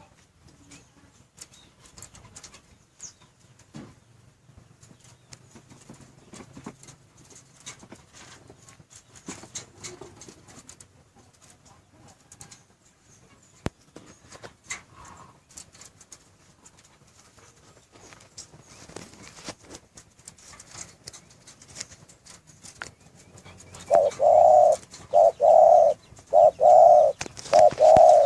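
Spotted dove (derkuku/tekukur) cooing: a quick run of loud, evenly repeated coo notes starts near the end, after a long stretch of faint scattered ticks and small chirps.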